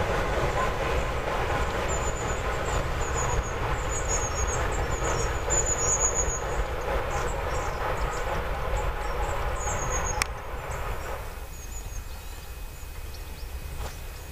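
A train running inside a railway tunnel, its rumble and wheel noise carrying steadily out of the tunnel mouth, with small birds chirping over it. About ten seconds in the sound cuts off sharply to much quieter outdoor background.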